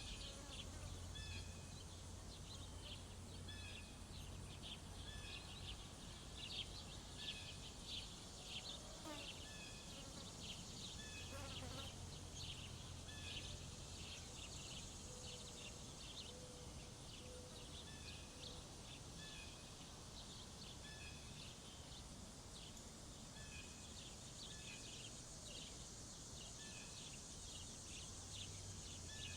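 Faint outdoor summer ambience: small birds chirping in short, repeated high calls throughout, over a steady high-pitched insect drone.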